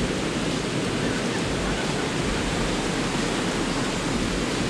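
Steady rush of ocean surf breaking on the beach, an even noise with no distinct events.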